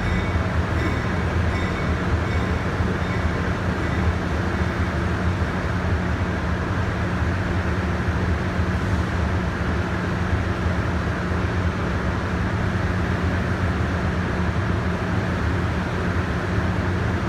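Amtrak train coming into the station: a steady rumble with a low, even hum.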